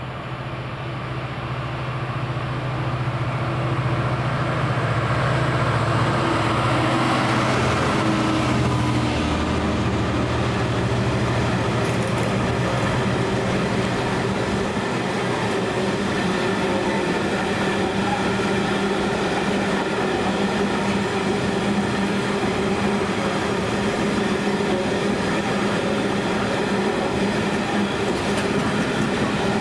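A diesel train passing through the station. Its engine note rises in loudness, then drops in pitch as the power car goes by about eight seconds in. It is followed by a long, steady rumble and clickety-clack of rail wheels as the rest of the train passes.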